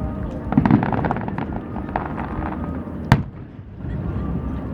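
Fireworks going off: a run of crackling pops about half a second in, then one sharp bang about three seconds in.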